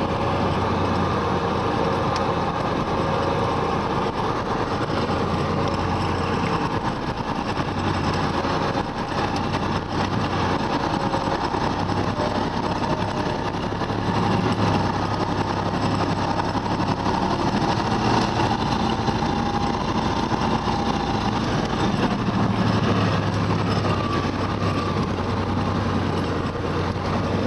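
Loaded timber truck's engine running steadily on the move, a continuous low drone with road and body noise, swelling slightly about halfway through.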